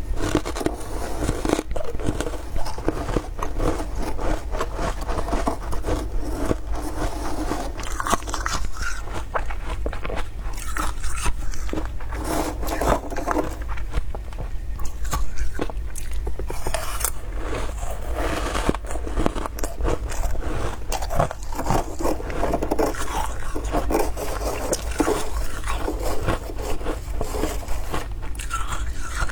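Deep-freezer frost being scraped and crunched: a dense, continuous run of crisp scraping and crunching of soft ice.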